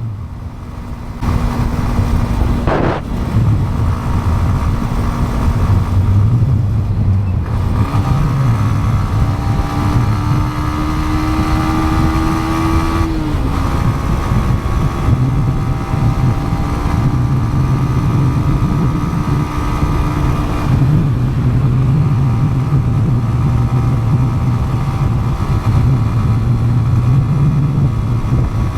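Yamaha MT-15 motorcycle engine under way: the engine note comes up about a second in, climbs steadily in pitch for several seconds as the bike accelerates, drops sharply about thirteen seconds in at a gear change, then holds steady at cruising speed.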